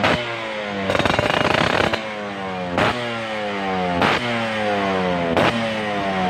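Yamaha F1ZR two-stroke engine through a WRS aftermarket exhaust, blipped about five times. The revs fall away after each blip, and the second blip is held for about a second.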